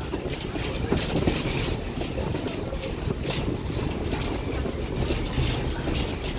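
Passenger train rolling along the track, heard from an open-sided car: a steady rumble of wheels on rail with a few faint clicks.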